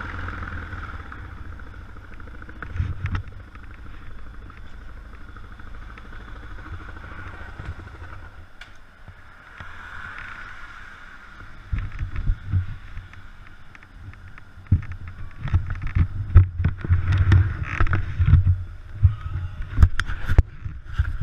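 Yamaha XT 600 single-cylinder engine running during a ride on a wet road, under a steady hiss of wind and spray. From about halfway, irregular low buffeting and sharp clicks grow louder.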